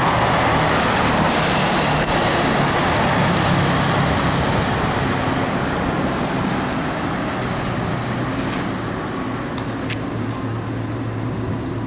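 Road traffic: a heavy vehicle's engine running with tyre and road noise, slowly fading away.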